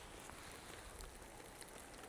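Faint, steady rain, with scattered drops ticking on a surface.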